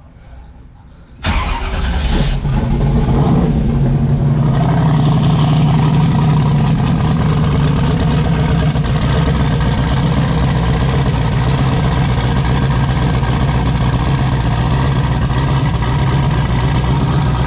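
Twin-turbo LS V8 engine in an S10 truck firing up about a second in and then running steadily: the first start of the freshly built engine.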